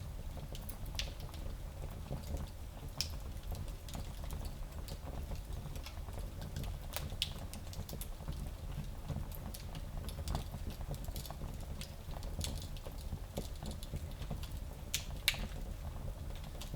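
Wood fire crackling in a small fireplace: a steady low rumble of flames with scattered sharp pops and snaps, the loudest pop near the end.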